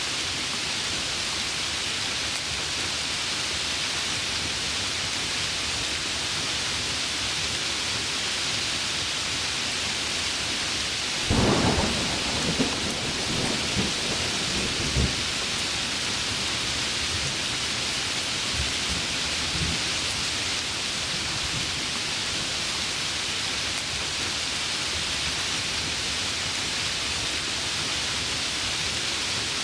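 Heavy rain falling steadily, a dense even hiss. About eleven seconds in, a sharp clap of thunder breaks out and rumbles on in rolls for about four seconds. A few fainter low rumbles follow some seconds later.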